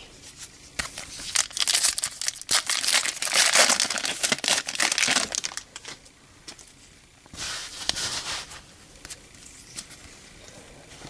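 Foil wrapper of a 2013 Topps Series 2 baseball card pack being torn open and crinkled: a long stretch of crackling in the first half, a shorter burst about two seconds later, then light clicks of handling.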